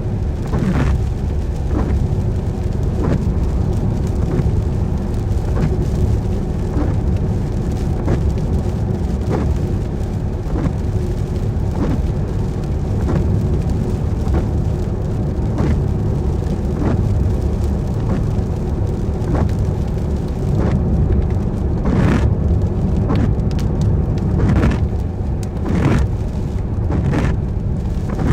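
Car driving in rain, heard from inside: a steady low rumble of engine and tyres on a wet road, with regular swishes about once a second, like windscreen wipers sweeping.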